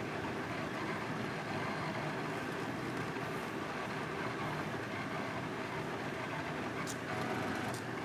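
Small DIY CNC drawing machine running steadily, its stepper motors making a continuous mechanical noise, with a faint steady tone joining in briefly near the end.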